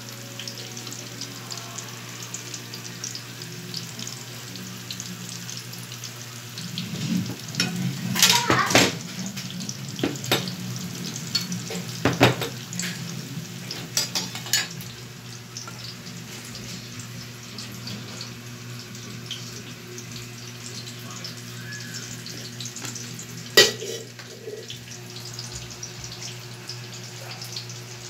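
Eggplant omelettes sizzling and crackling in hot oil in a frying pan, over a steady low hum. Several louder knocks and scrapes against the pan break in during the middle, with one sharp knock near the end.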